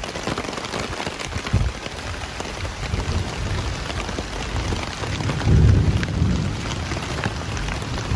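Steady rain falling, with many individual drops striking close by. A loud low rumble rises about five and a half seconds in and lasts about a second.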